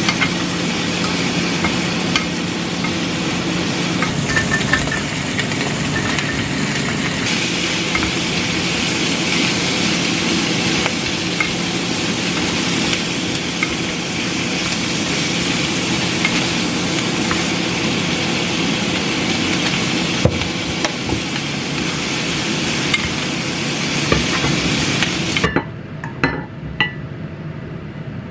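Smoked duck, shrimp and vegetables sizzling in a frying pan while a wooden spatula stirs and scrapes them. Near the end the sizzling cuts off suddenly, and a few knocks follow as the food is scraped from the pan into a bowl.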